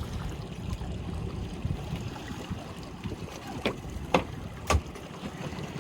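Wind rumbling on the microphone and water sloshing aboard a small boat on open water, with three short sharp knocks a few seconds in.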